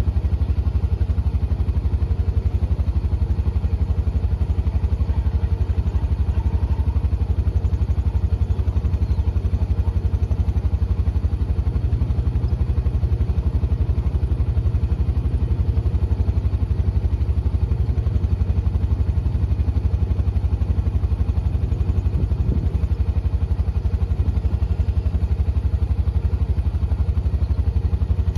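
Deutz-Fahr tractor's diesel engine running steadily with a loud, even low rumble.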